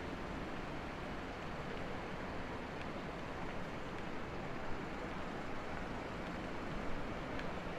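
Steady city street ambience: a constant wash of distant traffic noise, with a few faint clicks.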